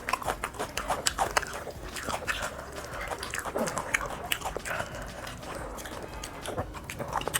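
Close-up eating sounds of fried tilapia being bitten and chewed: many short crisp clicks and smacks, with a couple of short falling whine-like sounds in between.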